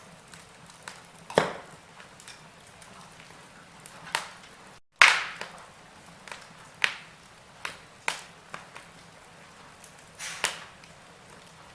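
Wood fire crackling in a fireplace: sharp, irregular pops and snaps, a dozen or so, over a low steady hiss. The sound cuts out completely for a split second just before the midpoint, then resumes with a loud pop.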